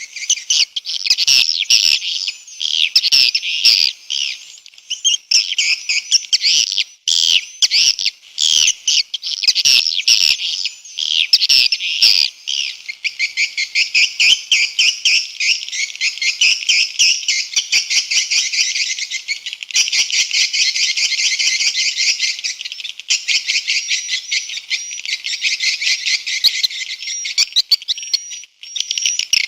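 Swiftlet calls: dense, rapid twittering chirps, high-pitched with nothing below them. Sharp clicks are scattered among the chirps, most of them in the first half. It is a 'respon'-type swiftlet call track of the kind played to draw swiftlets into a bird house.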